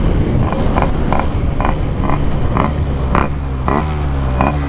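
Yamaha RX-King 135cc two-stroke motorcycle engine running at speed under a loud rushing noise. A steady engine note comes through more clearly in the second half and eases off slightly near the end.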